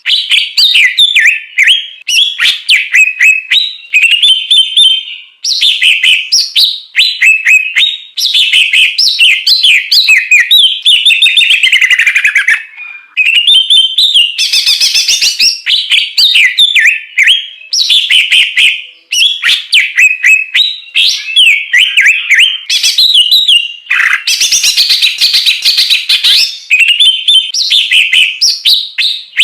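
Loud, continuous songbird song: fast, varied phrases of whistles, trills and chatter, broken only by a few brief pauses.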